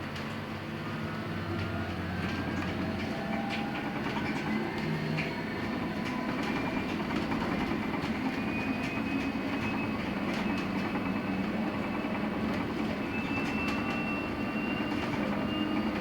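LiAZ-6274 electric bus heard from inside the cabin, its electric traction motor giving a whine that climbs steadily in pitch as the bus gathers speed, over tyre and road noise.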